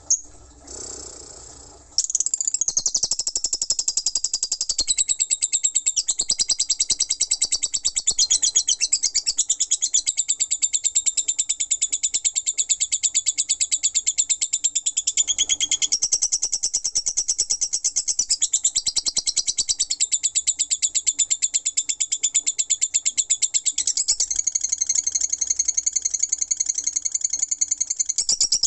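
Lovebird's ngekek: an unbroken stream of very rapid, high-pitched chattering notes, starting suddenly about two seconds in after a quieter moment and running on without a break.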